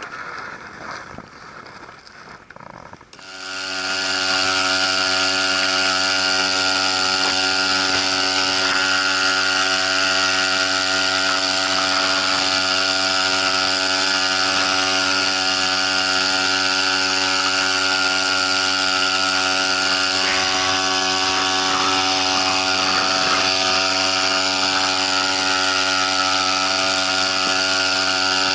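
Small Jeimo SP-1 1.2 hp outboard motor running at a steady speed. It comes in about three seconds in and holds one even pitch.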